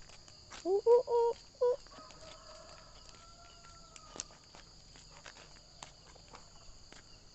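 Free-range village chickens (ayam kampung) calling: a few loud, short clucks about a second in, then a fainter, long, slightly arching call. Crickets chirr steadily throughout.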